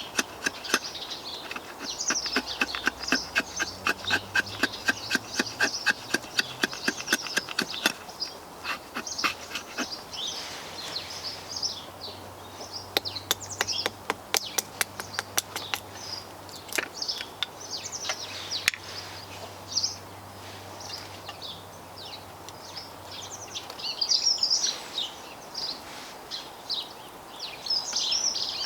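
Small birds chirping and twittering throughout. For the first eight seconds or so, a fast, even run of sharp strokes, about four a second, with a few more scattered strokes later.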